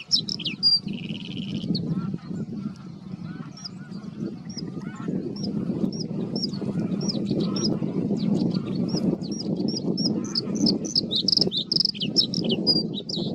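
Male bluethroat singing: short clear high notes repeated in phrases, with a fast buzzy trill near the start and again towards the end. A dense, steady low chattering chorus runs underneath the song.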